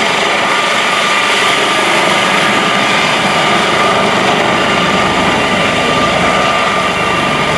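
US Coast Guard MH-65 Dolphin helicopter running steadily during a rescue recovery, its turbine and rotor noise carrying a steady high whine.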